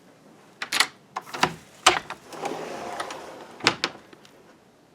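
A door being opened: several sharp clicks and knocks, with a short scraping rustle in the middle.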